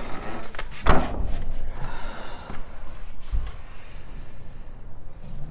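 A door banging in gusty wind: a sharp bang about a second in and a duller thud a few seconds later, over a low rumble of wind.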